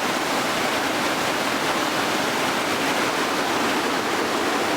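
Steady, loud rush of whitewater in the river below: an even hiss of churning water that keeps on without a break.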